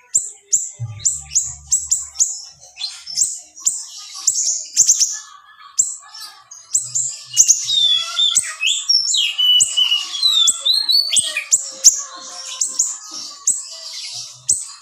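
Small 'siri-siri' songbird singing a masteran song: dense, sharp, high chirps repeated about three or four times a second. In the middle it breaks into busier twittering with quick falling whistles, then returns to the rapid chirping.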